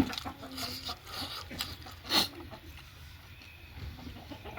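A person chewing and crunching food close to the microphone, with a run of crunches and one loud bite about two seconds in.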